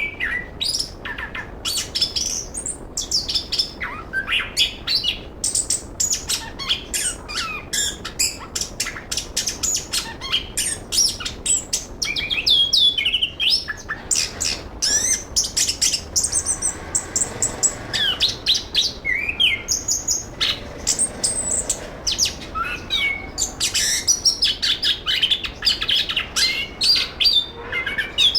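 Chestnut-capped thrush (anis kembang) singing a continuous, fast song of short whistled notes and rapid chirps, with quick rising and falling sweeps.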